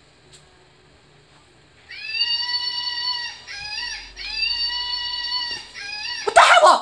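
Loud wailing screams: two long, steady calls, a short third one, then a harsh shriek at the very end, the loudest part. The screams are likened to a peacock's.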